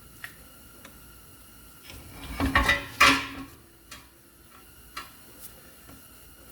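Brake caliper being pulled off its rotor: a short burst of metal clanking and scraping about two to three seconds in, with a few light metallic clicks before and after.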